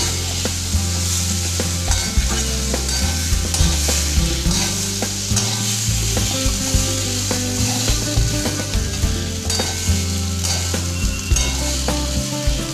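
Boiled potato chunks with spices sizzling in a hot metal kadai while a wooden spatula stirs and turns them, with frequent short scrapes and taps of the spatula against the pan over a steady frying hiss.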